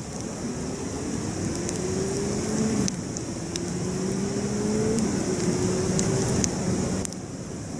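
Campfire crackling with occasional sharp pops, while a vehicle engine rises in pitch three times, dropping back between rises as it shifts up through its gears.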